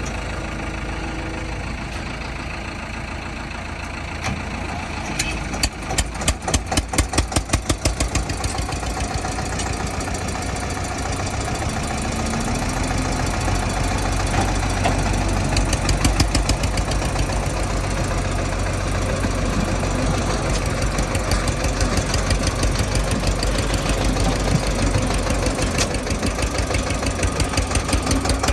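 Eicher 242 tractor's diesel engine running. About five seconds in it gives a couple of seconds of loud, evenly spaced thuds, then runs on steadily, growing somewhat louder partway through.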